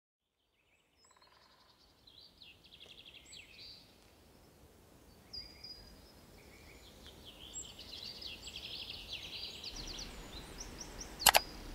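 Faint small-bird chirping and rapid trills, a little busier toward the end, with a single sharp click just before the end.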